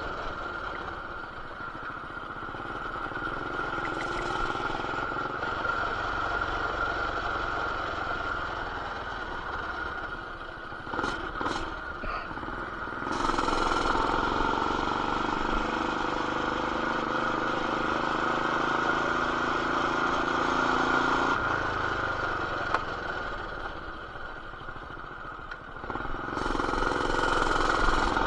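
Coleman BT200X mini bike's 196cc single-cylinder engine with an aftermarket header and RLV exhaust running under way, the engine note rising and falling with the throttle, louder for a long stretch in the middle and again near the end. A few short knocks about eleven seconds in. The sound is muffled by the action camera's plastic case.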